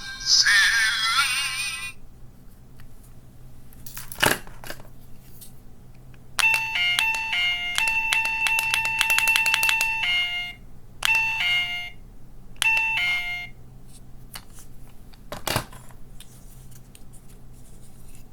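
Small electronic sound-effect capsule toy: a sharp button click, then a quick run of electronic beeps stepping between a few fixed pitches, followed by two shorter bursts of the same chime pattern. Another click comes near the end, and the tail of a short electronic tune plays at the start.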